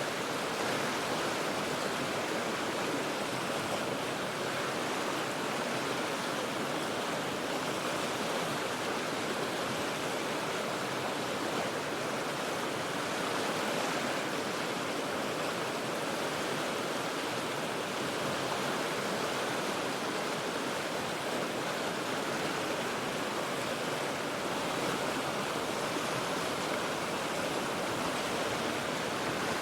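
The Cheat River's water rushing steadily, an even, unbroken noise with no change in level.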